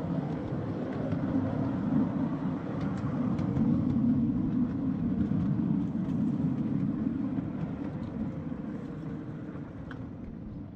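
A 5-inch gauge miniature ride-on train running along garden track: a steady rumble of wheels on rail with a few light clicks, fading away over the last few seconds.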